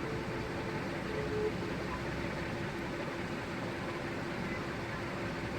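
Steady mechanical hum and hiss, even throughout, with a faint steady tone in it.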